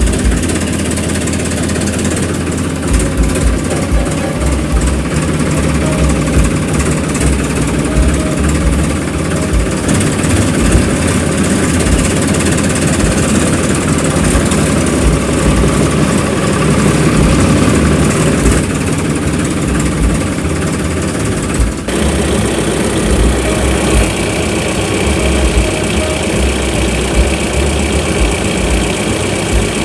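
Steady idling engine sound with an uneven low throb; it changes abruptly about two-thirds of the way through and carries on idling.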